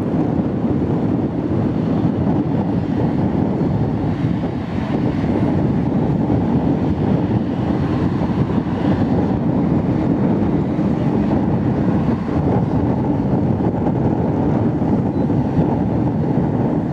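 Wind buffeting the microphone: a loud, steady low rumble with no distinct tones.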